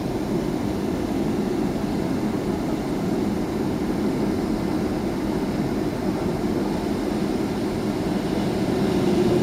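Boeing 757-200's engines running at low power, heard inside the passenger cabin as a steady low rumble. Near the end it grows a little louder and a steady hum comes in.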